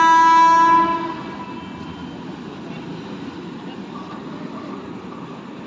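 Alstom WAG12B electric locomotive's horn sounding one loud chord that cuts off about a second in, then the steady rolling noise of the freight train running through on the track.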